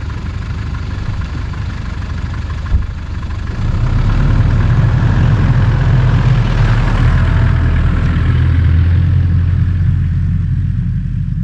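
Car engine running with a low rumble, growing louder about three and a half seconds in as the car pulls away.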